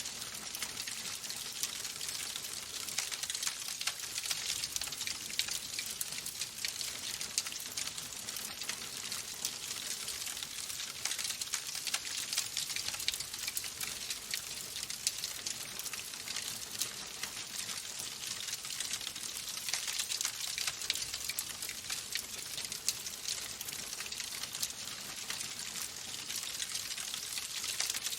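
Wood fire in a fireplace crackling steadily: a dense run of small snaps and pops over a soft hiss, with no let-up.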